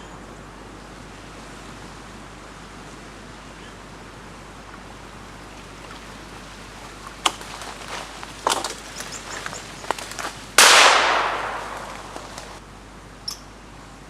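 A single shotgun shot about ten seconds in, its report dying away over about two seconds, after a few seconds of light snapping and rustling in the brush.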